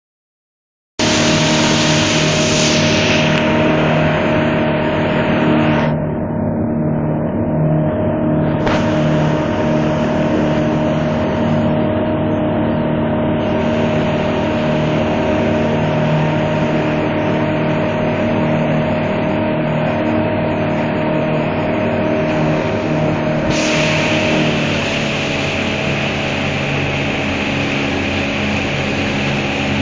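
Boat engine running steadily at cruising speed under a loud rushing noise, starting about a second in; the rushing dulls for a few seconds and brightens again later.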